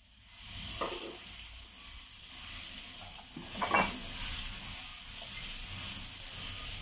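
Chopped chicken liver and gizzard sizzling in oil in a wok, a steady hiss. A short knock comes about a second in and a louder clatter just before four seconds.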